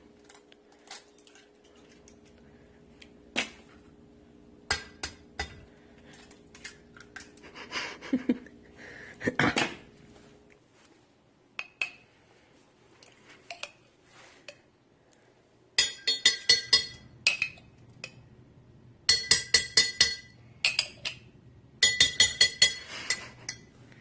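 Kitchen utensils clinking against dishware: scattered knocks at first, then three quick runs of ringing clinks in the last eight seconds.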